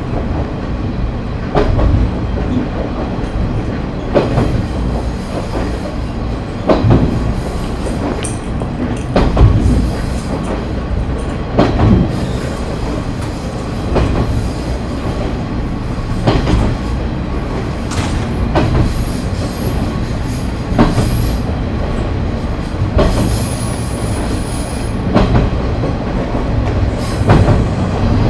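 KiHa 30 diesel railcar running along the line: a steady diesel engine drone with the wheels knocking over rail joints every second or two. A thin high wheel squeal sounds for about two seconds near the end.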